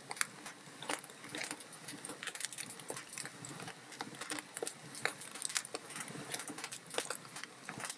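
Wood log fire crackling: a steady stream of small irregular pops and snaps, several a second, over a soft hiss of burning.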